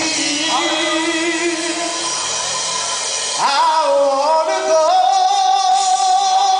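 Live gospel singing: a voice draws out a line with vibrato, slides upward about three and a half seconds in, then holds one long wavering note, with music behind it.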